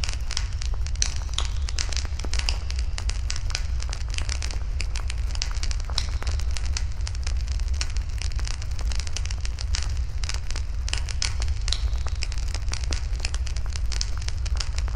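Wood fire burning in a fire pit, with dense, irregular crackling and popping over a steady low rumble.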